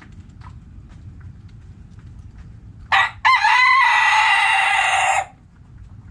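Rooster crowing once, about three seconds in: a short first note, then a long held call of about two seconds that cuts off sharply. Faint short clucks come before it.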